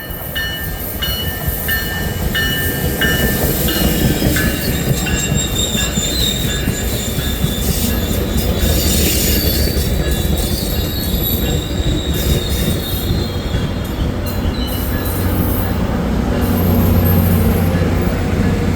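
Tri-Rail commuter train moving through the station. A bell rings about twice a second for the first few seconds, the steel wheels squeal high on the rails, and the diesel locomotive's engine grows louder near the end.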